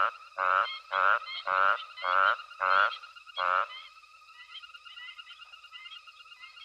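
Nighttime frog chorus: one frog close by croaks loudly about seven times, roughly twice a second, then stops about three and a half seconds in, while a steady chorus of other frogs carries on behind.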